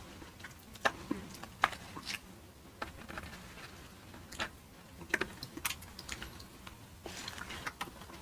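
Close-miked eating: chewing with scattered sharp, wet mouth clicks and smacks.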